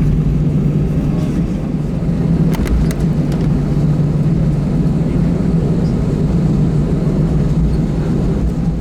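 Steady low rumble inside an Airbus A320 cabin, with the engines running on the ground before takeoff. A few faint clicks come about two and a half to three and a half seconds in.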